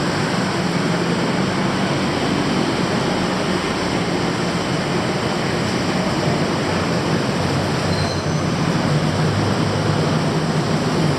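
Steady, loud rumble of vehicles moving along a city street.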